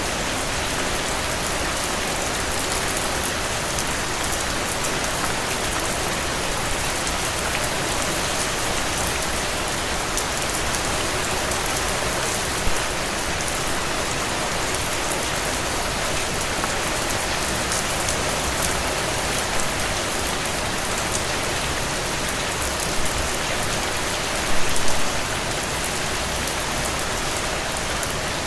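Steady, even rain falling and pattering on a surface. There is a brief louder hit near the middle and a short cluster of louder hits near the end.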